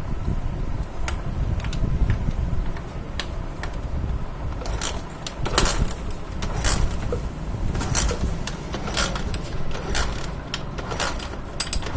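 Scattered metallic clicks and taps of hand work on a motorcycle, more frequent in the second half, over a steady low rumble.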